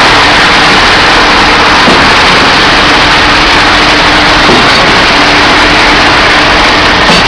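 Truck-mounted concrete pump running steadily at work, its engine loud and unbroken, with a faint steady hum under a dense wash of mechanical noise.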